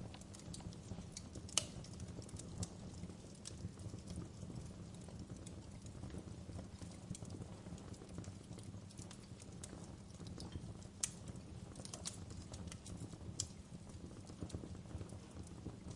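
Wood campfire burning, crackling with irregular sharp pops and snaps over a steady low rumble, one snap louder about a second and a half in.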